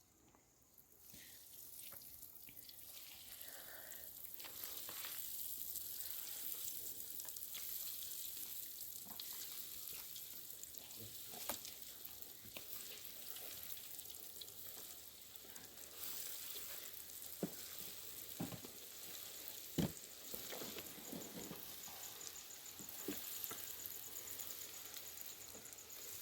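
Salmon cutlets sizzling as they fry in hot oil: a steady hiss that builds up in the first couple of seconds, with a few sharp clicks, the loudest about 20 seconds in.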